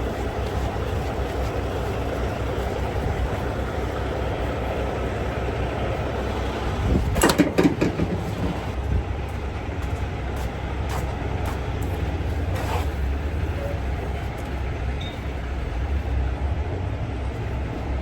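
Steady low rumble of a heavy truck running, with a short burst of rattling clatter about seven seconds in.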